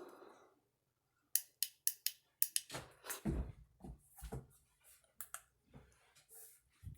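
A quick string of sharp clicks, with a few dull low thumps through the middle, like small hard objects being handled.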